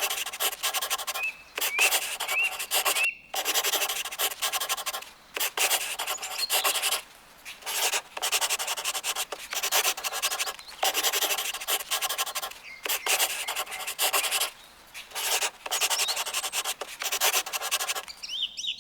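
Felt-tip marker rubbing and scratching across paper in quick runs of strokes, tracing over drawing outlines, with short pauses between runs.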